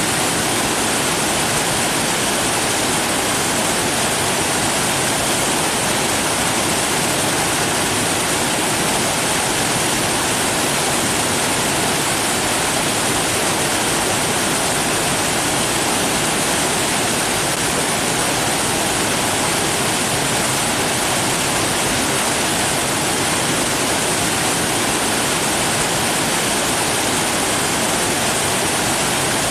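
Steady rushing water, an even unbroken wash of sound with no separate splashes or events.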